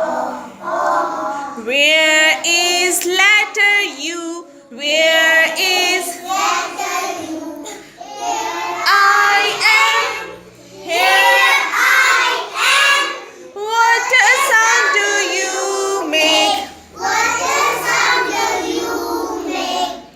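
A young child's high voice singing a vowel-sounds phonics rhyme, in short phrases with brief pauses between them.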